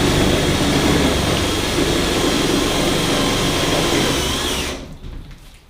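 An electric power tool running hard with a steady high whine, then cutting off about five seconds in.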